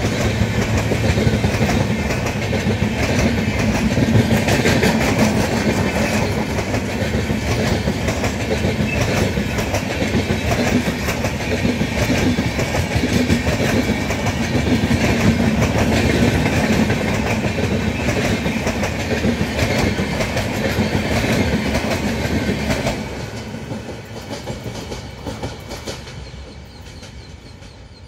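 Express train of LHB passenger coaches rolling past at speed, with the wheels clattering steadily on the track. The sound fades away after about 23 seconds as the last coach draws off.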